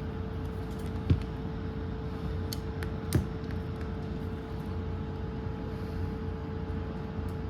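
Small electric hobby drill running steadily with a constant whine, drilling out the rivets that hold a hair dryer's temperature switch, with two sharp clicks, about a second in and about three seconds in.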